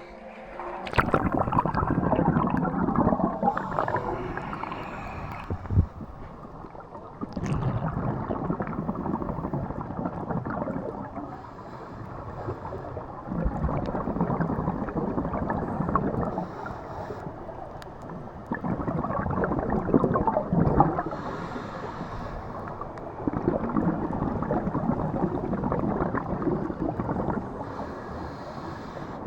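Scuba diver breathing through a regulator underwater: bursts of exhaled bubbles gurgling about every five seconds, with quieter inhaling stretches between them.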